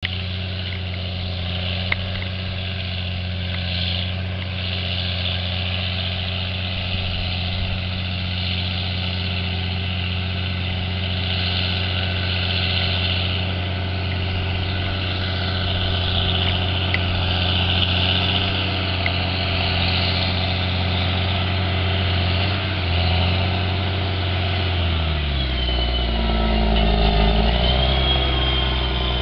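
Caterpillar Challenger 765C tracked tractor's diesel engine running at a steady, constant note while pulling a plough. About 23 seconds in the engine note drops lower and stays changing for a few seconds, with a brief rising whine near the end.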